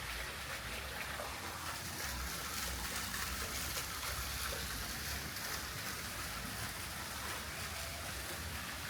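Steady rush of running water, with an uneven low rumble underneath.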